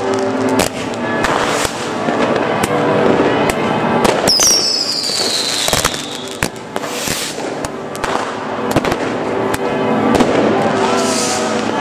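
Fireworks going off one after another: rockets and firecrackers banging and crackling, with a shrill whistle falling in pitch about four seconds in.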